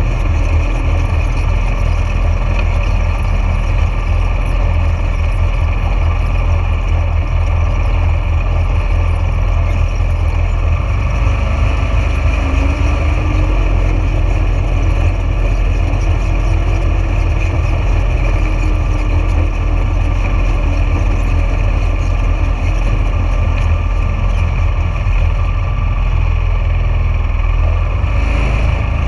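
A vehicle running steadily, with a heavy low rumble that stays at an even level throughout.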